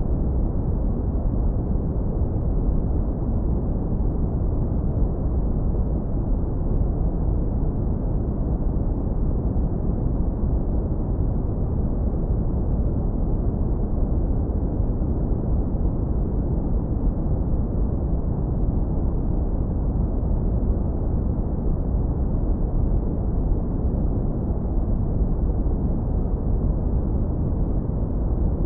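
Synthetic brown noise, low-pass filtered hard so that only a deep rumble is left: a steady, unchanging noise with no events.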